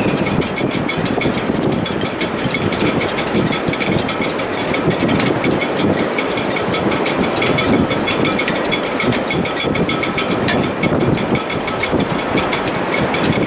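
Wind in a sailboat's shrouds in heavy weather: a steady, loud rush with faint held whistling tones and a fast, even ticking from the rigging.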